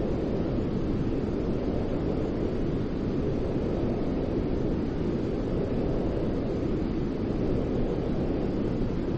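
Steady white noise for soothing a baby: an even, deep hiss weighted toward the low end, with no changes.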